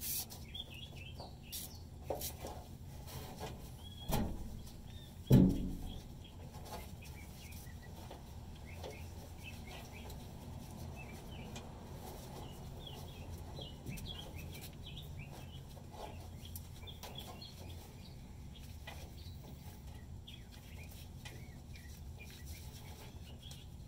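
Birds chirping outdoors, short calls scattered throughout over a steady low hum. Two sharp knocks about four and five seconds in, the second the loudest.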